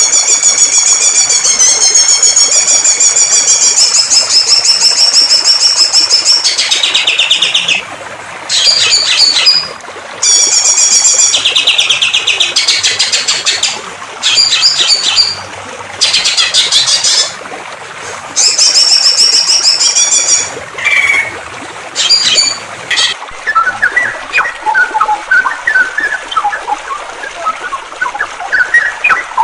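Songbird singing loud, rapid, trilled phrases, first one long run and then bursts of a second or two with short pauses between them. Near the end a softer, lower twittering of scattered chirps takes over.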